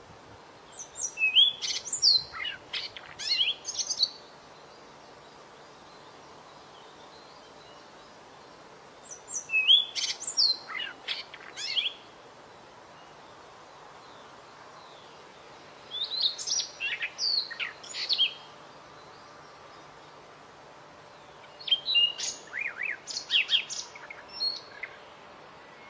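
A small songbird singing in four separate bursts of quick, high chirps and trills, each about three seconds long, with pauses of several seconds between them.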